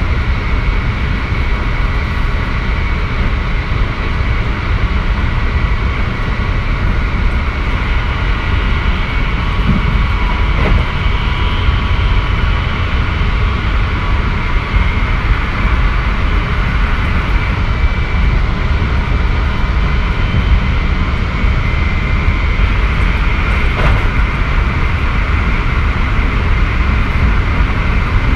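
Keikyu 1000 series electric train running at steady speed: a continuous low rumble of wheels on rail with a steady whine above it.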